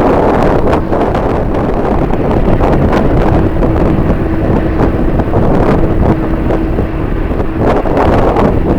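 Strong wind buffeting the microphone in loud, gusty rushes, with a faint steady tone in the middle that stops again near the end.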